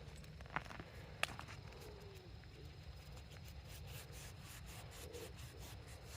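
Faint rubbing and handling sounds of a freshly dug glass marble being turned and rubbed in the hand, with two sharp clicks in the first second and a half.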